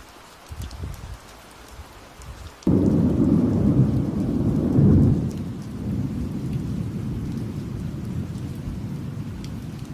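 Steady rain falling with a pattering of drops; about a quarter of the way in a thunderclap breaks suddenly and rolls on as a long low rumble, loudest around halfway, that slowly eases off while the rain continues.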